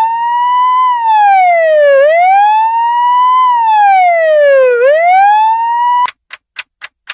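Ambulance siren wailing, its pitch rising slowly and falling back in two long sweeps, then cutting off suddenly about six seconds in. Regular short ticks, about four a second, follow near the end.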